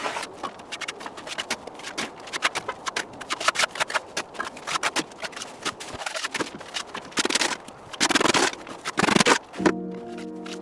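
Wet cement mortar being packed into a form by hand with a tool: quick, irregular scrapes and taps, with a few longer, louder scraping strokes about seven to nine seconds in. Music comes in just before the end.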